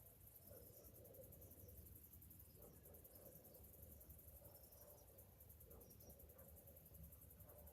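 Cicadas buzzing faintly and steadily: a high, rapidly pulsing drone, over a lower wavering hum and a low rumble.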